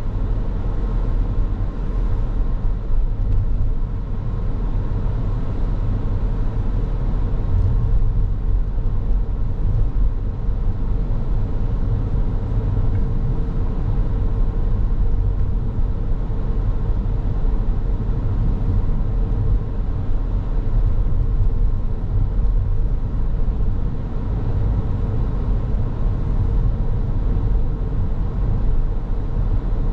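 Car driving along at a steady pace: even low road and engine rumble with tyre noise, and a faint steady hum running through it.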